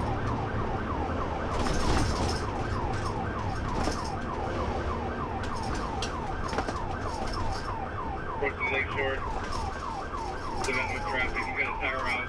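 Police car siren in fast yelp mode, its pitch sweeping about five times a second over steady road and engine noise. Near the end a second siren joins with a slow rising wail.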